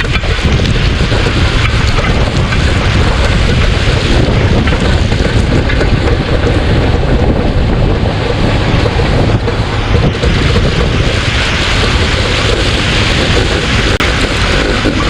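Loud, steady wind buffeting on the microphone, a rough rumble that masks any clear engine note.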